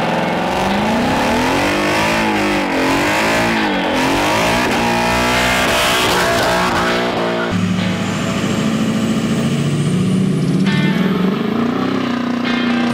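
Vehicle engines revving, their pitch swinging up and down repeatedly. About halfway through the sound changes abruptly to a steadier engine note that climbs in pitch.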